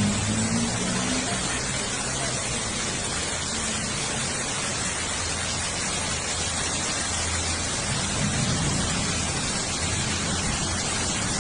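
Heavy rain pouring down in a steady hiss, with a low hum in the first second.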